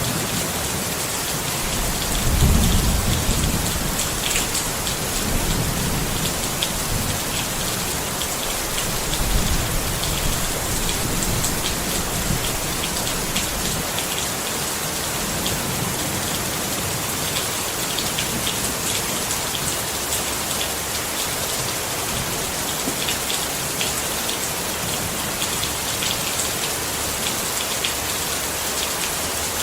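Steady rain pattering on a tent, with many individual drops ticking on the fabric. Low rumbles swell up twice, about two seconds in and again about nine seconds in.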